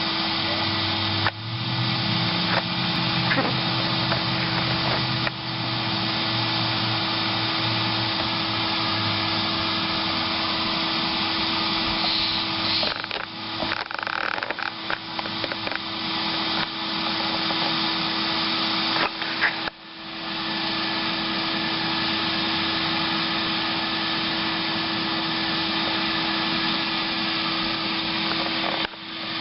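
Vacuum running steadily with a constant hum, sucking honey bees out of a wall cavity. Its sound dips briefly a few times, most sharply about two-thirds of the way through, then builds back up.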